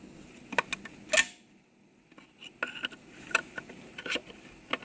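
Irregular sharp metallic clicks and scrapes of a hooked screwdriver prising a snap ring out of its groove inside a 4L60E transmission case, with a short pause between one and two seconds in.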